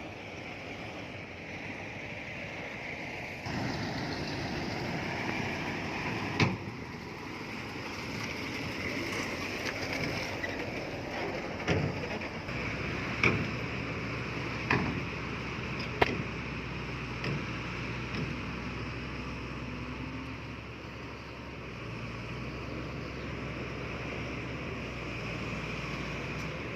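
Earthmoving machinery working: a diesel engine running steadily under a constant noisy hiss, with about five sharp knocks or clanks in the middle of the stretch.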